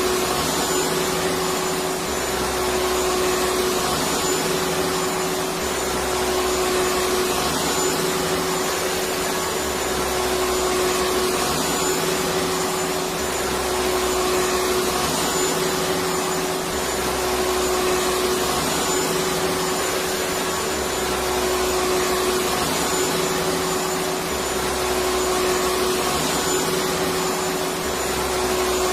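Electric vacuum cleaner running steadily: a full hiss with a constant motor whine. Underneath, a low rumble swells and eases every couple of seconds.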